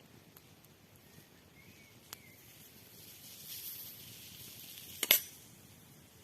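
Wood fire in a fireplace hissing softly, with a faint crack about two seconds in and a sharp snap about five seconds in.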